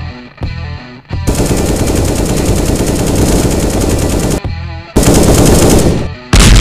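Rapid automatic gunfire in three bursts over music: a long burst of about three seconds, a shorter one of about a second, and the loudest one at the end.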